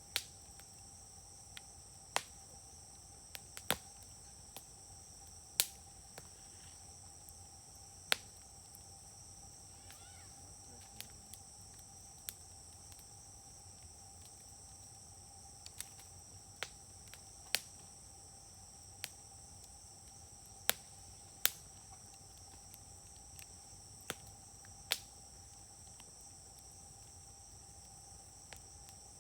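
Wood fire burning in a fire grill, crackling with sharp, irregular pops every second or two. A steady, high-pitched insect trill runs underneath.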